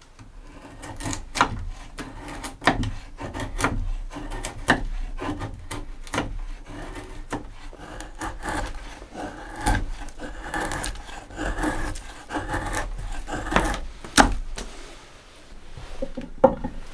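Pieces of wood being handled: irregular wooden knocks and clatter, with a run of rougher scraping strokes in the middle.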